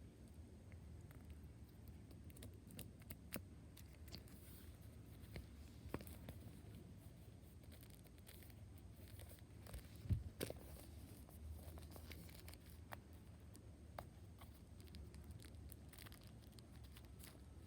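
Quiet handling sounds over a low hum: scattered small clicks and light rustling, with one louder knock about ten seconds in.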